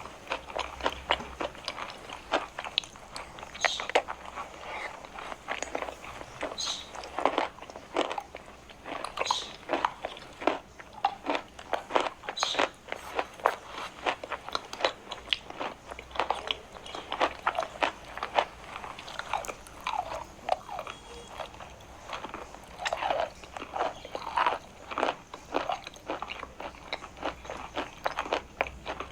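Close-miked biting and chewing of chalk: a dense run of sharp, dry crunches, several a second, without pause.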